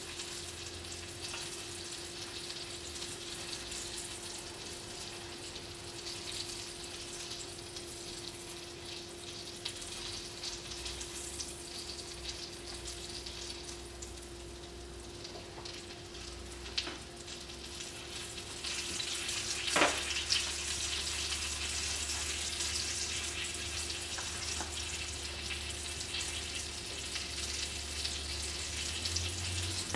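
Mahi mahi frying in a pan of hot oil: a steady sizzle that grows louder about two-thirds of the way through, over a steady hum. A utensil knocks sharply against the pan a few times, loudest about two-thirds of the way in.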